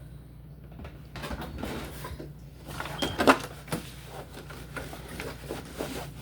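Bottles and containers being handled and set down in a refrigerator: a run of irregular small knocks and clicks, one louder knock about three seconds in, over a steady low hum.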